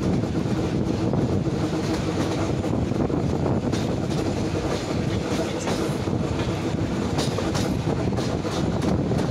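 Electric commuter train running, heard from a carriage window: a steady rumble of wheels on rail under a constant hum, with sharp clicks from about the middle on as the wheels cross switches.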